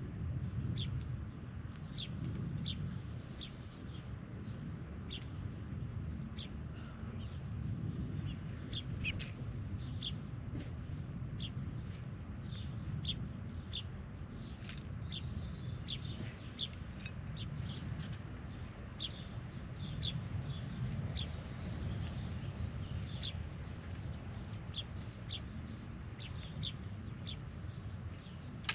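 Wild birds giving short, sharp chirps and chucks, several a second on and off throughout, over a steady low rumble.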